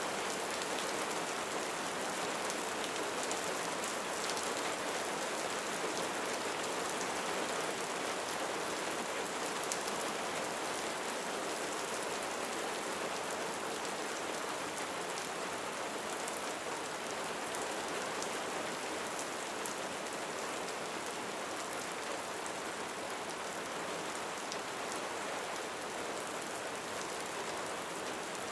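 Steady rain falling on a roof, a dense even patter with many fine individual drop ticks.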